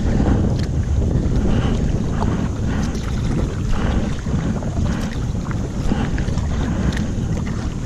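Strong wind buffeting a GoPro microphone in a steady low rumble, with water splashing and lapping around a kayak.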